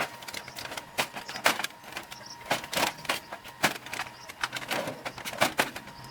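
A run of irregular sharp clicks and knocks, about two or three a second, over a faint steady low hum.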